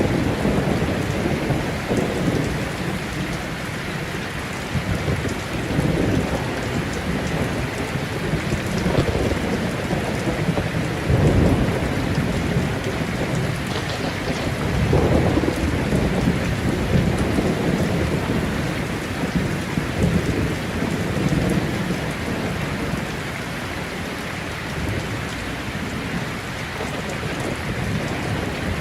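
Thunderstorm: steady heavy rain with rolling thunder rumbling through it, swelling loudest about halfway through and easing off near the end.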